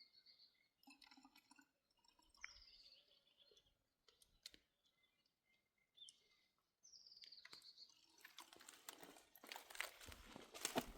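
A bird singing faintly, three short phrases of falling high whistles a few seconds apart. From about eight seconds in, crunching and rustling grow louder.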